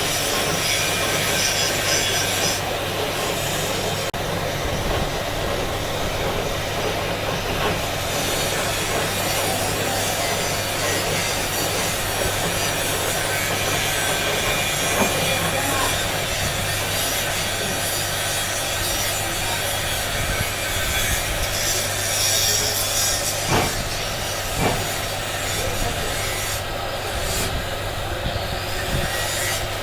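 Continuous rasping and rubbing of a tool or abrasive against a stone vessel, over a steady low hum, with two short knocks in the second half.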